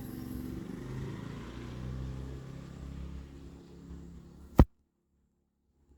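A motor vehicle's engine running steadily and slowly fading away. Then a single sharp click about four and a half seconds in, after which it goes nearly silent.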